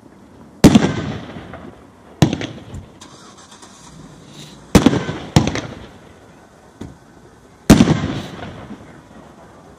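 A multi-shot aerial firework cake firing: five loud booming breaks, spaced one to three seconds apart, each trailing off with a ragged tail, plus one faint pop.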